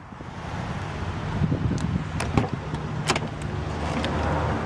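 A 1997 Mercedes-Benz S500's rear door being opened: a handful of sharp clicks and knocks from the latch and handle, over a steady low hum.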